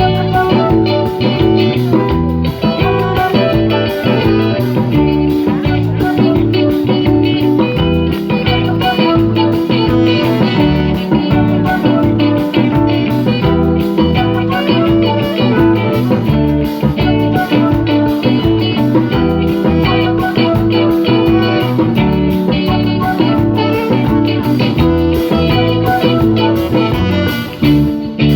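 Live band playing an instrumental guitar section of a pop song, electric guitar leading over bass and drums with a steady beat. The music stops abruptly at the very end.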